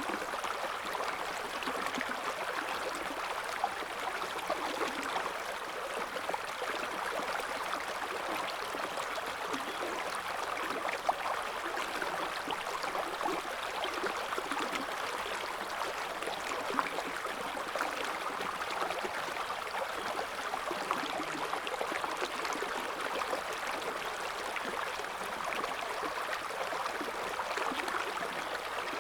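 River water flowing and burbling over stones, a steady rushing with constant small gurgles and splashes.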